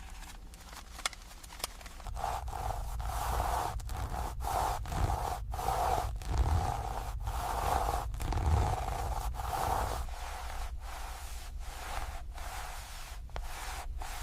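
Repeated scraping strokes, roughly one and a half to two a second, beginning about two seconds in after two sharp clicks and easing off near the end.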